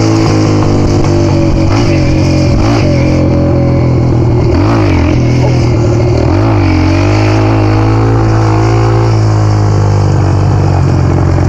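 A motor vehicle engine running loud and close to the microphone, its pitch dipping and rising a few times around the middle as the revs change.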